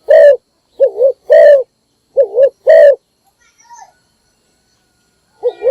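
Spotted dove cooing: a short wavering coo followed by a longer held coo, the pair repeated, then a pause of a couple of seconds before another short coo near the end. This is a decoy dove's call used to lure wild doves.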